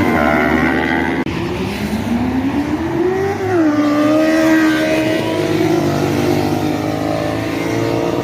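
Motorcycle engine running loud, its pitch climbing from about two seconds in and then holding steady. The sound breaks off for an instant just over a second in.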